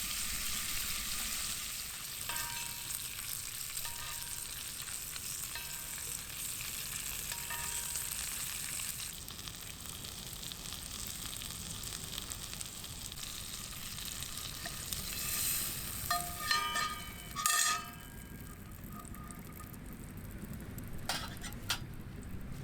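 Steak sizzling in a hot pan over a wood fire, with light metal clinks of tongs on the pan. The sizzle dies down about three-quarters of the way through, around a run of sharp ringing metallic clinks.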